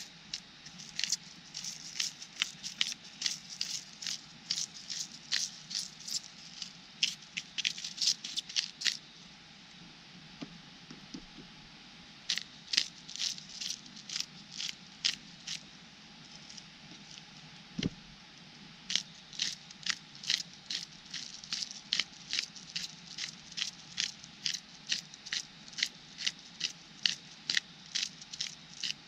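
Campfire crackling: firewood popping in sharp, irregular snaps, several a second, easing off for a couple of seconds about a third of the way in.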